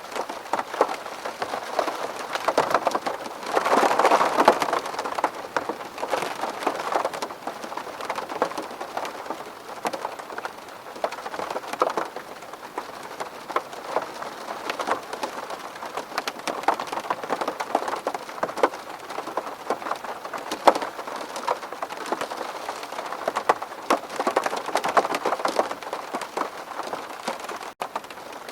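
Rain falling on a window pane: a steady patter of many individual drops, with a brief heavier swell about four seconds in.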